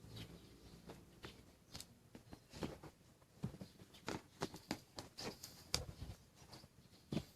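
Faint, irregular light clicks and taps, as of small tools and parts being handled, with a few sharper clicks about four to six seconds in.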